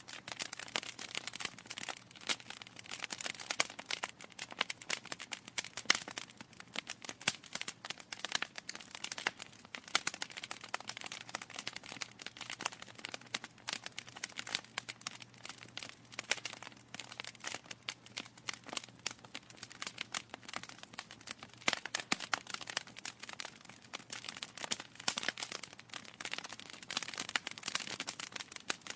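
Wood fire crackling, with dense, irregular pops and snaps from burning logs over a faint hiss.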